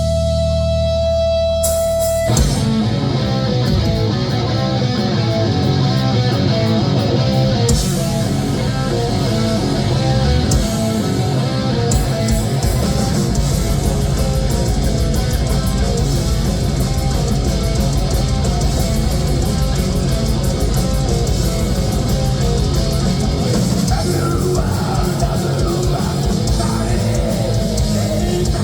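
Heavy metal band playing live, with distorted electric guitars, bass and drums. A single held note over a low drone gives way to the full band crashing in about two seconds in, and the band keeps playing fast and loud after that.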